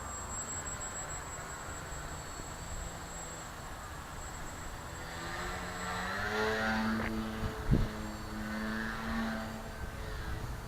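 Electric brushless motor and 10x4.7 propeller of an RC profile Yak 55 model plane whining at a steady pitch, growing louder from about halfway and then fading, over wind buffeting the microphone. A short thump comes about three-quarters of the way through.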